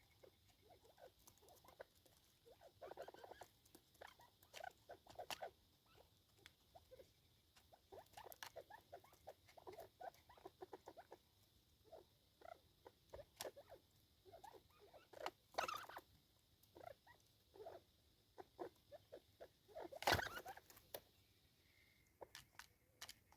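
Faint, irregular small clicks and scratches of a small animal feeding, with two louder knocks about 15 and 20 seconds in.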